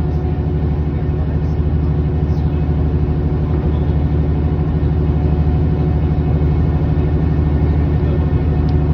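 A tour boat's engine running steadily, with an even, low engine note.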